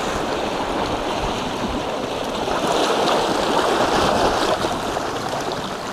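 Ocean surf washing in a steady rush, mixed with wind blowing across the microphone.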